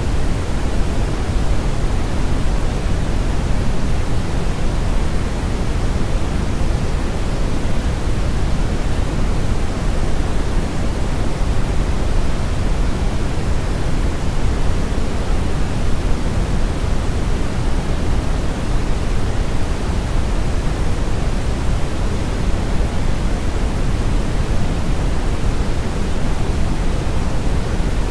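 Steady brown noise: an even, unchanging hiss with its weight in the low end, deep and rumbling rather than bright.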